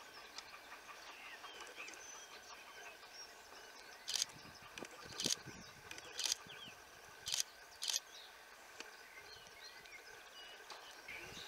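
Birds chirping and singing over a faint steady background, with five short, loud bursts of hiss spaced unevenly between about four and eight seconds in.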